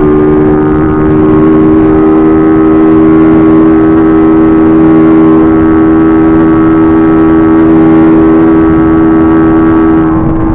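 Small motorcycle engine held at high, nearly constant revs during a flat-out speed run, with wind and road noise over the bike-mounted camera. The revs ease off slightly near the end.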